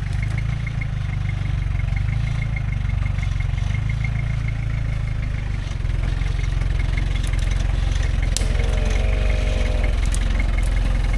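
Vehicle engine running steadily at low speed, with a faint regular ticking over the low drone and a brief higher-pitched tone just after eight seconds in.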